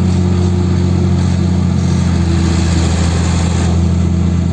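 Heavy diesel engine running steadily, a deep even drone with no change in pitch.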